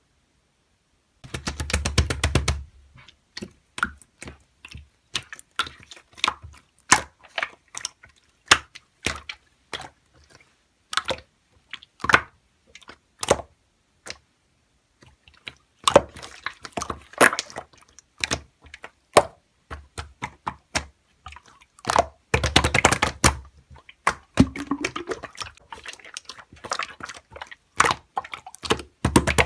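Slime being pressed and squeezed by hand, making irregular crisp clicks and pops of trapped air. Two short runs of rapid crackling come near the start and about three-quarters of the way through.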